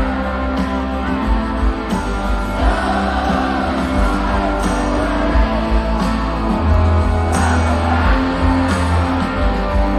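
Live rock band playing loud and without a break through a concert PA: electric guitars, bass and drums, with a sung or wavering melody line over them.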